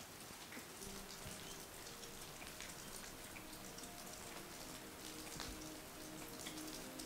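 Faint rain pattering and dripping steadily, with many separate drops landing. Faint sustained music tones come in quietly about a second in.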